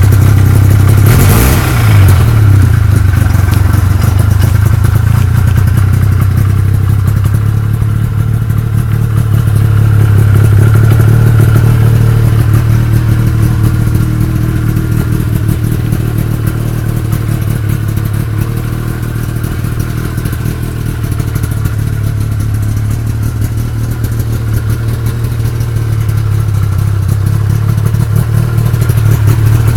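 1979 Ski-Doo Blizzard 5500 snowmobile's two-stroke engine running steadily while under way, with a brief clatter about a second in.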